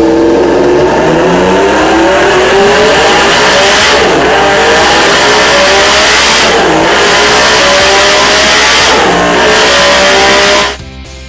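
Honda CBX air-cooled inline-six engine running through its six-into-six megaphone exhausts, revving hard. Its pitch climbs steadily, falls back sharply about four, six and a half, and nine seconds in, then climbs again. It cuts off abruptly near the end.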